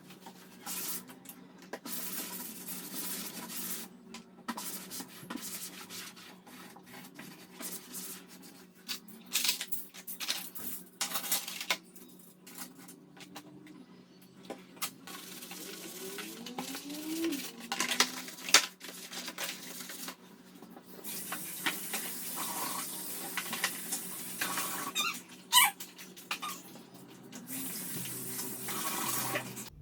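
Metal cutlery clinking and rattling as it is sorted and dropped into place, many separate clinks with stretches of rustling scrape between them, over a steady low hum.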